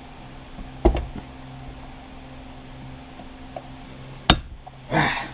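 Metal clicks and snaps of a stiff C-clip (snap ring) being forced into its groove in a snowmobile chaincase bearing bore: one sharp snap about a second in and a louder one near the end, the last as a clip seats.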